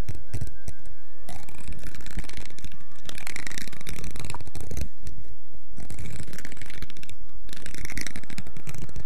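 Close-miked ASMR trigger sounds: a dense run of quick taps, clicks and rustles handled right against the microphone.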